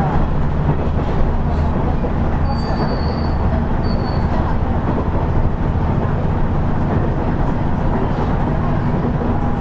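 Cabin running sound of a KiHa 110 series diesel railcar under way: a steady diesel engine drone under continuous wheel-and-rail noise. Two brief high-pitched tones sound about two and a half and four seconds in.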